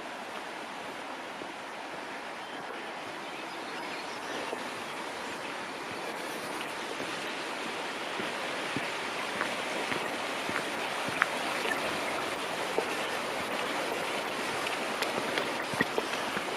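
Flowing stream water, a steady rush that grows gradually louder, with scattered small clicks over it in the second half.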